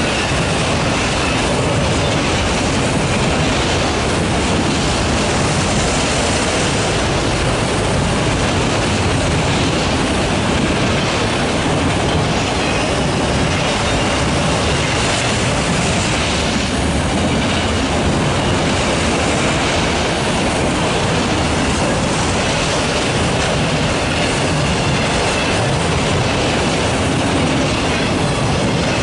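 Long freight train of autorack cars passing close by: a loud, steady rumble of steel wheels rolling on the rails.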